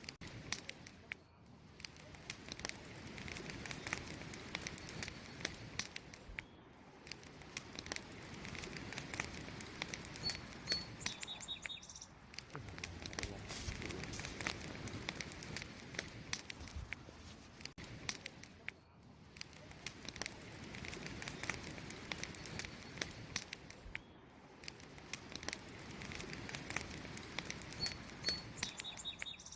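Wood campfire crackling and popping steadily in many quick snaps. A small bird chirps briefly twice, once about a third of the way in and again near the end.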